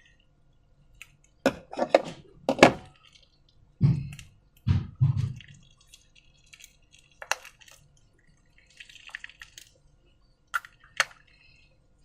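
Slime and balloons being handled: irregular wet, sticky squelches and sharp clicks, with a few heavier soft thuds about four to five seconds in.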